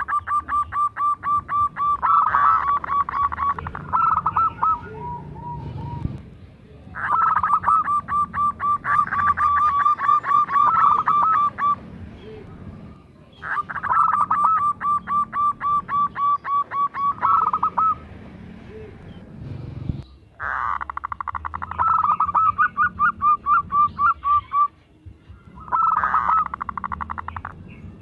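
Zebra dove (perkutut) cooing in its rapid staccato song: five bouts of quick repeated notes, each lasting a few seconds, with short pauses between them.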